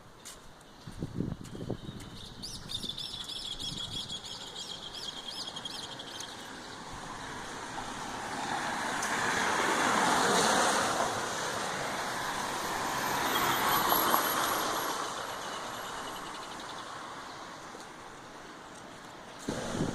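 A bird gives a quick run of repeated high chirps a few seconds in, then two road vehicles pass one after the other, their noise swelling and fading.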